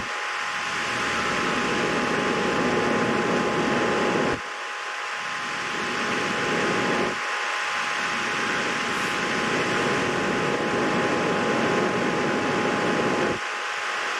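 A steady mechanical whir with a constant high hum. The lower part of the noise builds slowly, then cuts off abruptly about four seconds in and again near the end, as if the recording is spliced.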